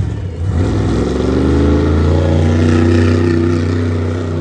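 Monster truck's supercharged V8 engine revving up about half a second in and held at high revs, loud and steady.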